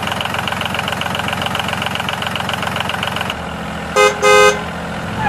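Tractor engine sound effect chugging rapidly and steadily, settling to a lower hum about three seconds in. Two short horn toots follow near the end, the second a little longer.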